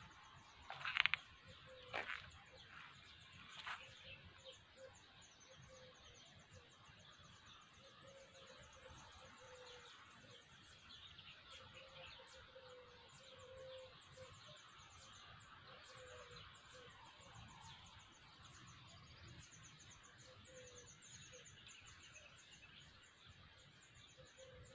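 Faint outdoor natural ambience: a fast, high chirring runs throughout, with short low calls recurring irregularly. A few sharp clicks come in the first four seconds.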